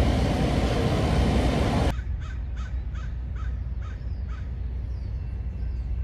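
A loud, steady rush of noise cuts off abruptly about two seconds in. It is followed by a quick run of about seven short, harsh bird calls, caw-like and evenly spaced, over a low steady rumble.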